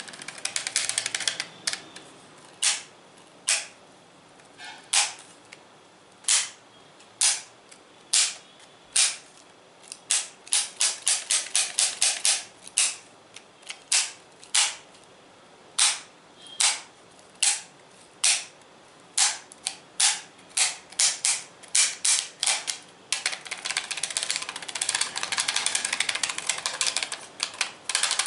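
Crisp ASMR tapping and clicking on hard objects: a dense patter at first, then single sharp clicks and quick runs of clicks, turning into a fast continuous clatter near the end.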